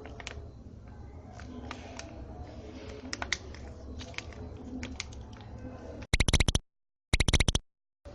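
Light, irregular clicks and taps from a spoon and plastic containers as Biore soap is added to the glue slime mix. About six seconds in come two half-second bursts of an edited-in pitched sound effect, each cut off into dead silence.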